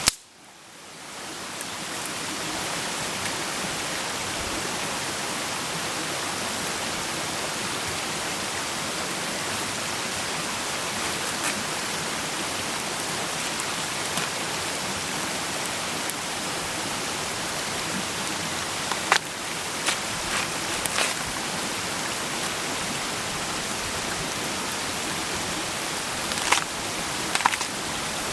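Food frying in a pan over a wood campfire: a steady sizzling hiss that swells back in over the first two seconds after a brief dip, with a few sharp pops and crackles in the last ten seconds.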